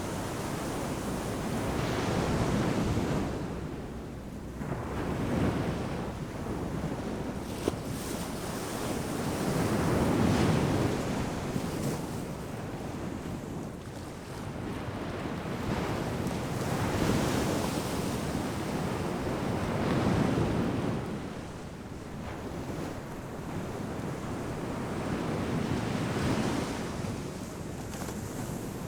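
Ocean surf breaking on a sandy beach, a continuous wash of waves that swells and recedes every few seconds, with wind on the microphone.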